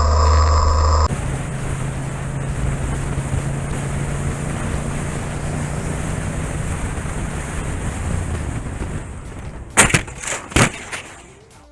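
Motorcycle running with wind noise on the microphone and a steady low hum, then three or four sharp knocks about ten seconds in, after which the sound fades.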